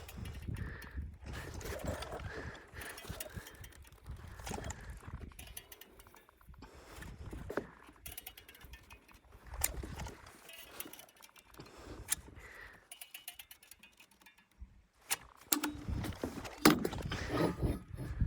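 Intermittent knocks, clicks and scuffs from work on a wooden subfloor deck, with a sharper knock near the end.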